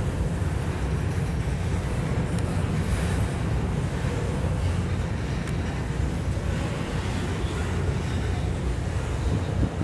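Freight train of covered hopper cars rolling past, a steady low rumble of steel wheels on rail.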